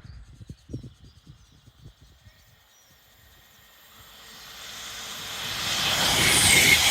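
A train approaching at speed, its rushing noise building steadily from a few seconds in until it is loud near the end, with short repeated high chirps as it nears. Low buffeting rumbles in the first couple of seconds.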